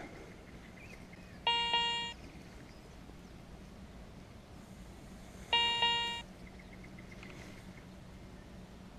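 Garrett Ace 200i metal detector giving two short target beeps about four seconds apart, each a steady electronic tone about half a second long, as it passes over a small dug-up target.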